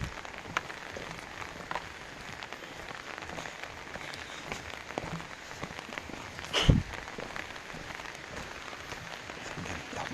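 Steady rain falling, a constant hiss with scattered sharp drop ticks. A single loud thump about two-thirds of the way through.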